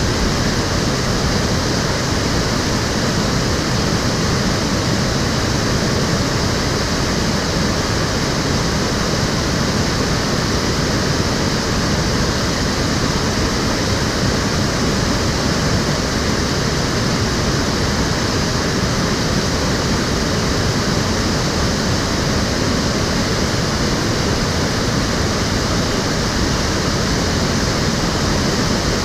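Water of the Cheonggyecheon stream flowing: a steady, even rushing with no breaks.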